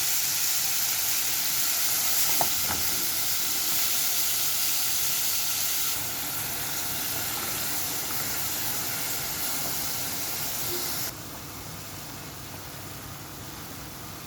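Food frying in a hot pan, sizzling steadily. The sizzle drops abruptly in level about six seconds in and again about eleven seconds in, with a faint click or two about two seconds in.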